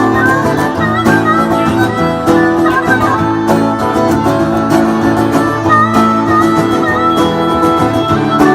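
Old-time string band playing an instrumental break: steady strummed acoustic guitar under a sliding lead melody line.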